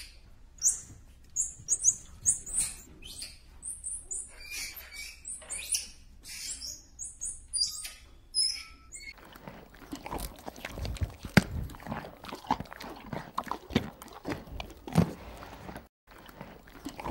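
Squirrel monkey calling in a rapid string of short, high-pitched peeps and chirps, many dipping in pitch. About nine seconds in the calls stop and give way to scattered clicks and soft knocks.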